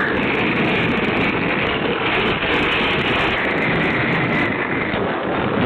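Floodwater rushing: a loud, steady noise with no breaks.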